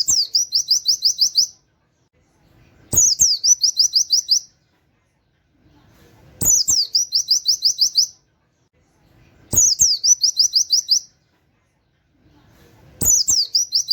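White-eye (pleci) singing a canary-style 'wit wit' song: a quick downward note, then a fast run of seven or eight high, even chirps. The same phrase comes five times, about every three seconds, with near silence between.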